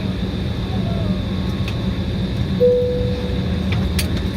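Steady hum inside the cabin of an Embraer 175 airliner on the ground after landing, with a single electronic cabin chime, a clear tone lasting about a second, a little past halfway through. A few faint clicks near the end.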